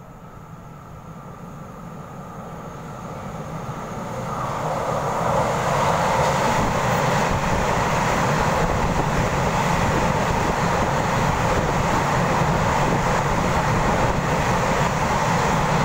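Taiwan Railways EMU3000 electric express train running through an underground station platform at speed without stopping. Its running noise grows over the first five seconds or so as it approaches, then stays loud and even as the cars pass.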